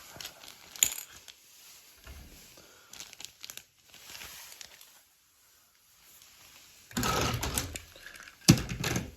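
Small plastic toy-train pieces clicking and clattering as they are put into a plastic Ziploc bag, with some crinkling of the bag. It comes in scattered clicks, pauses briefly, and the loudest clatter comes near the end.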